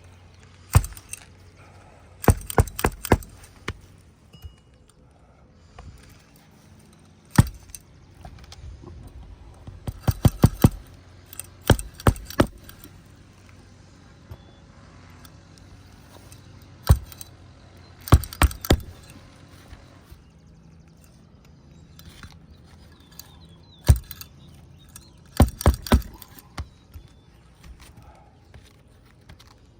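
Roofing hatchet driving roofing nails through a 3-tab asphalt shingle. The strikes come in short runs of one to five blows every few seconds.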